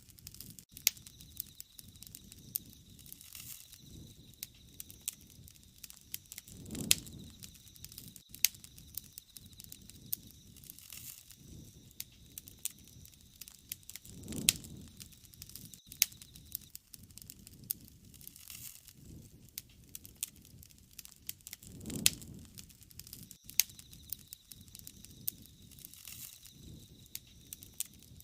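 Wood fire crackling, with frequent sharp pops and snaps. A soft low whoosh swells and fades about every seven or eight seconds.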